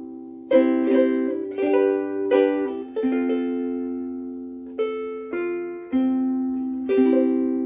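Pono Kalele soprano ukulele with Aquila Reds strings, strumming a slow series of chords. Each chord is left to ring out with long sustain.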